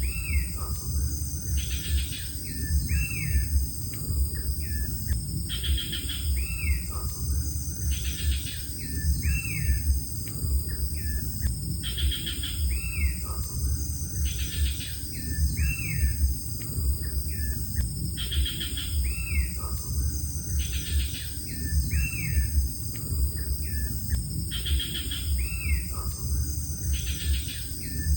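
Bird calls: a short set of chirps and whistled notes that repeats in an identical pattern about every six to seven seconds, over a steady low rumble.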